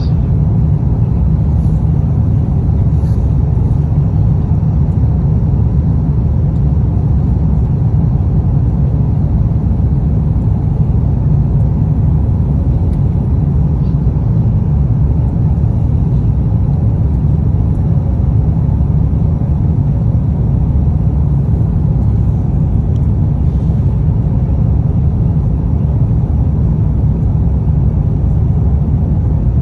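Steady low rumble of an Airbus A350's passenger cabin, the even drone of the aircraft's engines and air systems, unchanging throughout.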